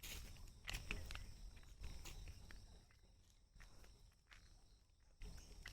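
Faint scuffing footsteps on dry ground, strongest in the first two seconds and again near the end, over a steady faint high insect drone.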